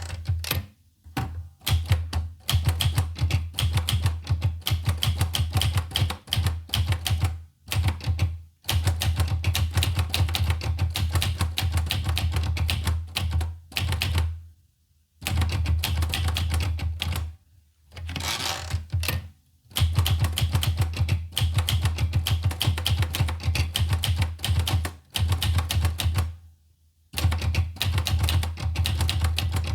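Olivetti Lettera 25 manual portable typewriter being typed on in fast runs of key strikes, broken by short pauses every few seconds. About 18 seconds in there is a brief rasping sound between runs.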